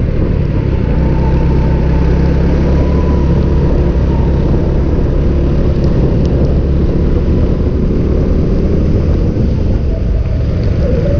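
Go-kart engine running at a fairly steady pitch, loud and continuous.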